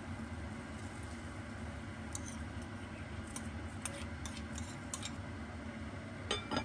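Light clicks and taps of kitchenware over a steady low hum, ending with a louder ringing clink near the end.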